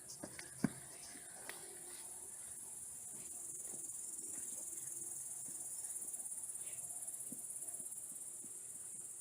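Crickets chirring in a steady, even high-pitched trill. A few sharp clicks sound near the start, the loudest about half a second in.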